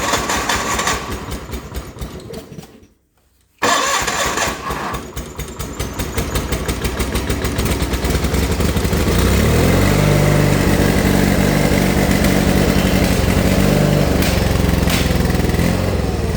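John Deere 420 tractor's two-cylinder gasoline engine being cranked over by its starter, which stops for a moment about three seconds in and then cranks again; about six seconds in the engine catches and runs on steadily at full throttle. A hard cold start; the engine burns oil heavily, which the owner puts down to a probable cracked ring or scored bore in the right cylinder.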